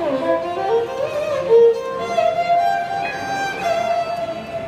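Music: a bowed string instrument playing a single melody line, its notes sliding smoothly from pitch to pitch.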